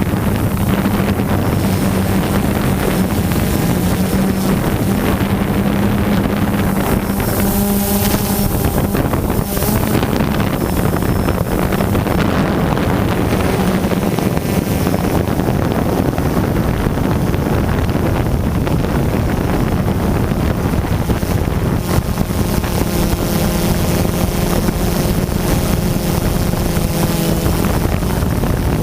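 DJI Phantom quadcopter's motors and propellers buzzing steadily, heard close up from the camera mounted on the drone, with wind rushing over the microphone. Higher-pitched motor tones come in about seven seconds in and again from about twenty-two seconds.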